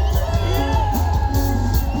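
Live rock band playing a passage without sung lyrics, the bass heavy and steady, with crowd voices and cheering mixed in.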